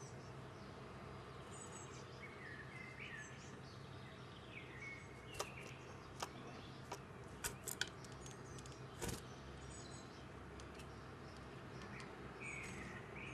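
Small songbirds at a feeder giving short chirps and high thin calls, with a handful of sharp taps in the middle, over a low steady background hiss.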